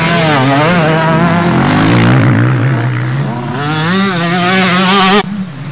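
Motocross bike engines revving hard, their pitch rising and falling quickly over a steadier low engine drone. The sound cuts off suddenly near the end.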